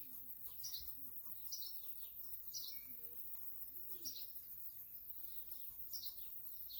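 Small songbirds chirping: short high chirps repeating roughly once a second, over a faint steady low hum.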